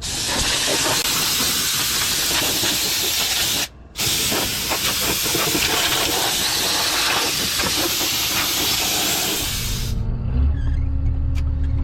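Compressed air blowing from an air nozzle in a loud steady hiss, broken once briefly about four seconds in, as the combine's air filter is blown out. Near the end the hiss stops and an engine is heard running steadily.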